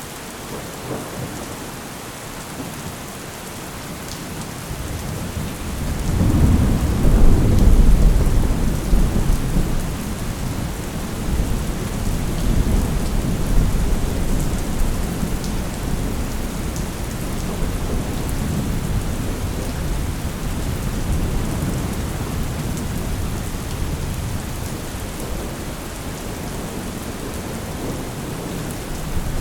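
Steady rain falling while a long roll of thunder builds about five seconds in, peaks a few seconds later and rumbles away slowly.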